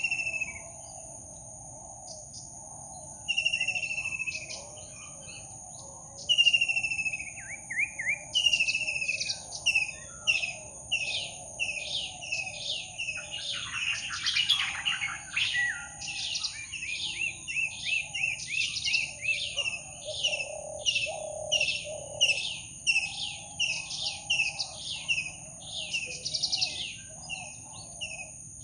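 Birds calling in tropical forest over a steady, high insect drone. A few separate calls sound early, then a rapid series of short falling calls repeats about one and a half times a second, with a busier flurry of calls about halfway through.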